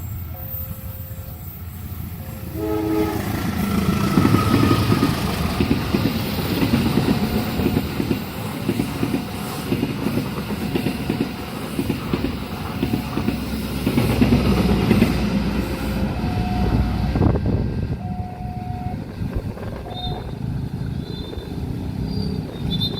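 A train passing at speed over a level crossing: a short horn blast about three seconds in, then the rumble and clack of wheels on the rails for about fifteen seconds before it eases. Evenly repeating crossing-alarm tones sound throughout.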